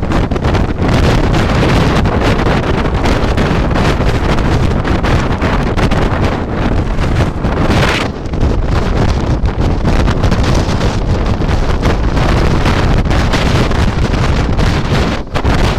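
Storm-force wind gusting across the microphone, a loud continuous rumble, with a stronger, hissier gust about eight seconds in.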